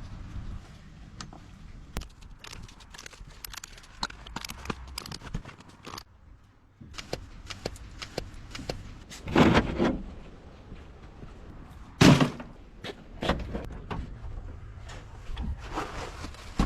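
Clicks, rattles and knocks of hands working on an old 1955 Willys station wagon, with two heavier thumps about nine and twelve seconds in.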